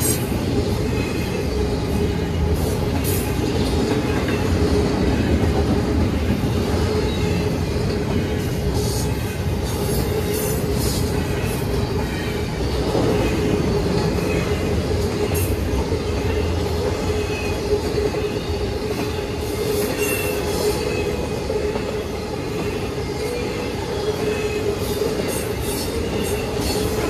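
Double-stack intermodal freight cars rolling steadily past over the grade crossing: a continuous rumble of steel wheels on rail, with a steady high tone held above it and scattered short clicks.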